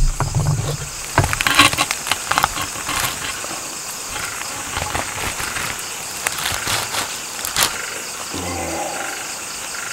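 A pestle knocking and grinding in a mortar while sambal chili paste is made, in irregular clicks and taps, busiest in the first few seconds. Insects chirp steadily.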